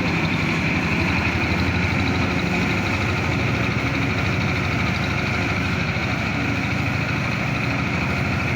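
A heavy vehicle's engine running steadily at an even speed, with a fast, even low pulsing and no change in pitch.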